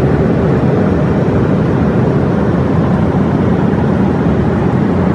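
Steady cabin noise inside an Airbus A320 in flight: an even rush of airflow and engine drone, strongest in the low range.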